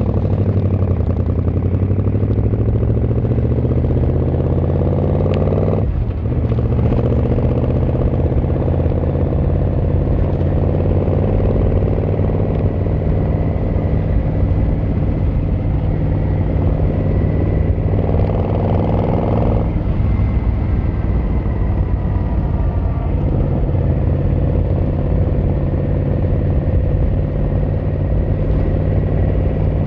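Yamaha XVZ1300 Royal Star's V4 engine and exhaust under way, rising in pitch as the bike accelerates, dropping briefly about six seconds in at what sounds like a gear change, then pulling up again and settling into a steady cruise.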